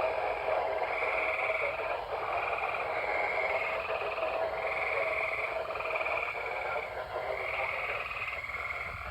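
A chorus of frogs calling, short trilled calls of under a second following one after another almost without a break.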